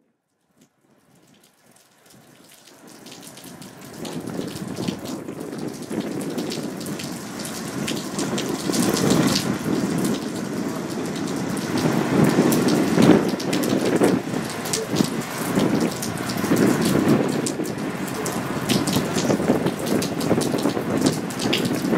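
Steady rain falling, with many drops striking close by; it fades in over the first few seconds.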